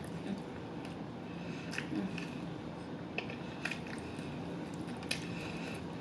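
Close-miked chewing of extra crispy fried chicken: moist mouth sounds with scattered crisp clicks.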